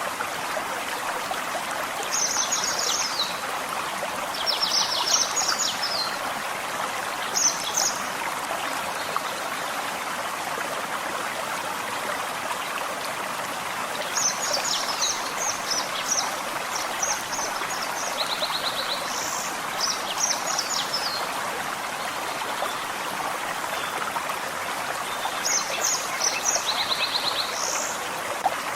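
Small forest stream flowing steadily over stones. Songbirds sing short, high, trilled phrases over it every few seconds, several in quick succession near the middle and again near the end.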